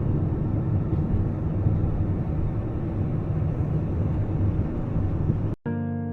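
Steady low rumble of a car driving, road and engine noise heard from inside the cabin. It cuts off suddenly about five and a half seconds in, and soft instrumental music begins.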